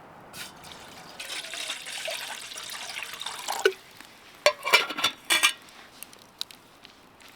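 Water pouring into a container for about two and a half seconds, followed by a few sharp clinks and knocks of cookware.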